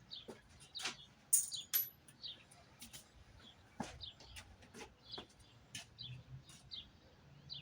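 Small birds chirping, short high calls repeating throughout. A few sharp clicks and knocks come in between, the loudest about a second in.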